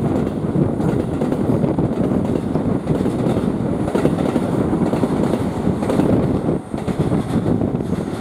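Steady low rumble of a train running on the rail tracks, with no horn or distinct wheel clicks.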